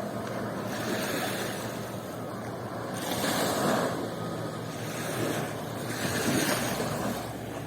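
Sea waves breaking and washing up the beach, a steady rushing noise that swells and eases every couple of seconds.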